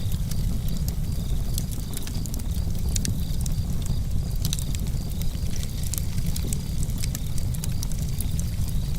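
Campfire burning with irregular sharp crackles and pops over a steady low rumble of the flames.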